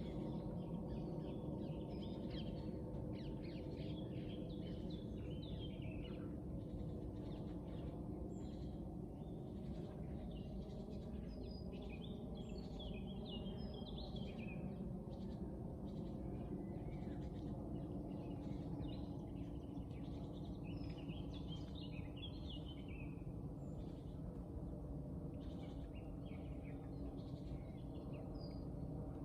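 Several songbirds singing and chirping, with short trills and calls scattered throughout, over a steady low background hum.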